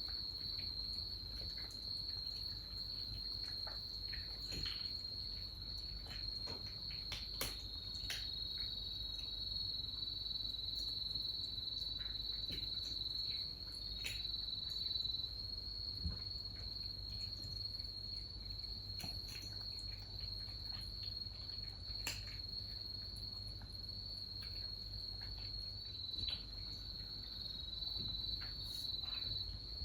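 Crickets chirping in a steady, unbroken high trill, with scattered light taps and clicks over it.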